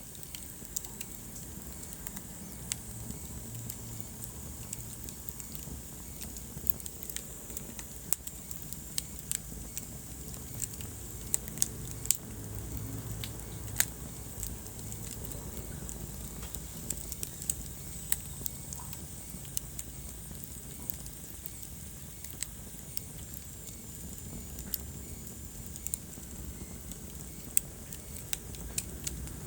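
Wood fire burning in a fireplace: a steady low rumble of flames with irregular crackles and sharp pops from the burning logs, a few of them much louder.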